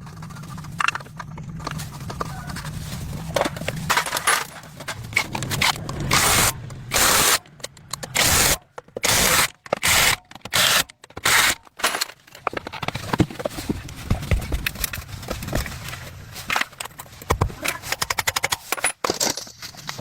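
Irregular short scraping strokes and clicks of hand tools working on metal, with a low hum under them in the first few seconds.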